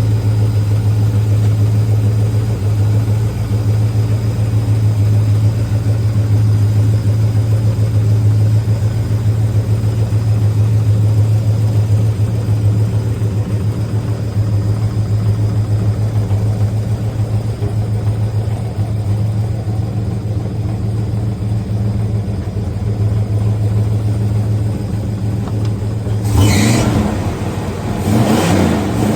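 Plymouth Barracuda's engine idling steadily, then revved briefly twice near the end. The exhaust has not yet been redone.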